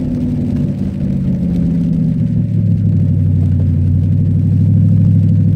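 Cadillac STS-V's supercharged V8 pulling under acceleration on track; its note steps lower about two seconds in, then runs on, slowly getting louder.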